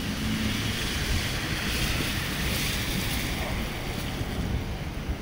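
Heavy rain pouring onto asphalt pavement, a dense steady hiss that swells a little in the middle, with wind buffeting the microphone.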